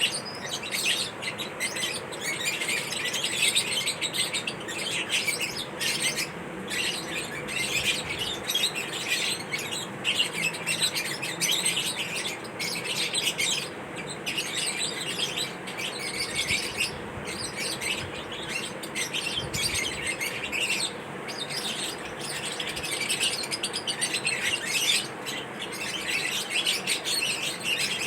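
Lovebird chattering: a steady stream of rapid, high-pitched chirps with only brief pauses.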